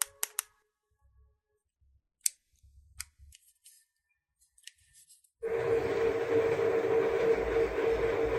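A few light clicks and taps from handling small plastic toy pieces, then about five seconds in a battery-powered toy switches on and runs with a steady buzzing hum.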